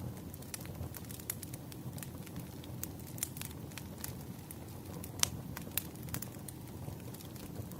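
Wood fire burning in a fireplace: a steady low rumble with irregular sharp crackles and pops, one louder pop about five seconds in.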